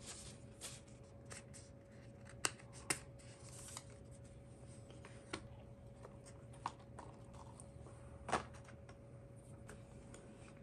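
Packaging being handled during unboxing: short bouts of rustling with scattered sharp clicks and taps, the loudest a pair about two and a half seconds in and one about eight seconds in.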